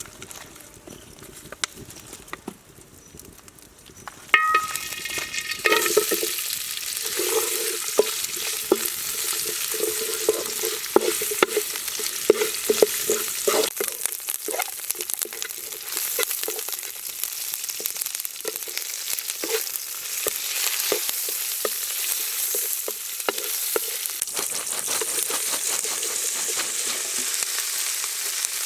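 Baby birds frying in a hot pan, a steady sizzle with many small clicks of stirring. It starts suddenly about four seconds in, with a brief ringing tone as the frying begins.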